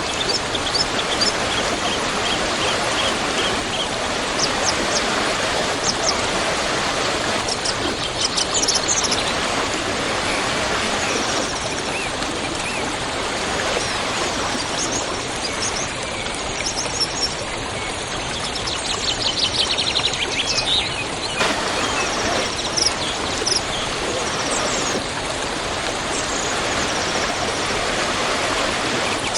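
Waterfall rushing steadily, with small birds chirping and trilling over the water now and then.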